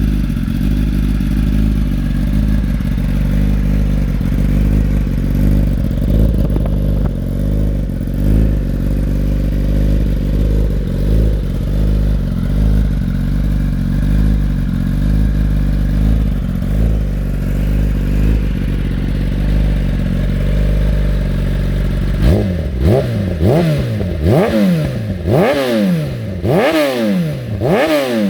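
Kawasaki ZX-10 inline-four motorcycle engine idling steadily through an HP Racing HP6 slip-on exhaust with link pipe and no catalytic converter. About three quarters of the way in it is revved in a string of quick throttle blips, the pitch shooting up and dropping back roughly once a second.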